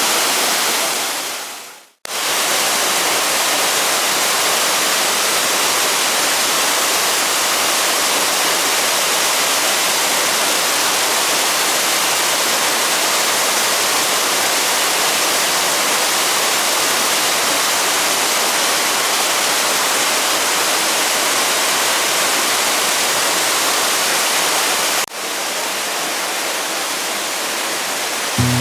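Rushing mountain-stream water, a steady loud hiss of flowing water. It fades out briefly about two seconds in and returns, then comes back slightly quieter after a cut near the end.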